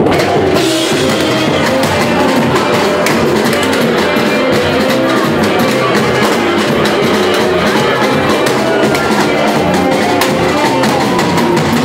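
Live samba band playing, with drums and percussion keeping a steady, dense beat under pitched instruments.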